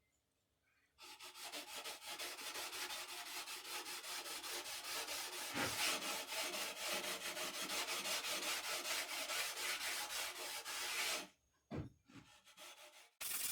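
Rapid back-and-forth hand rubbing with an abrasive, several strokes a second. The strokes pause briefly near the end with a single knock, then start again.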